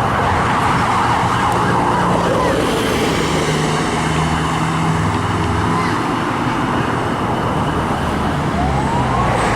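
Sirens of a responding fire engine and ambulance sounding over the steady rumble of a heavy engine and traffic.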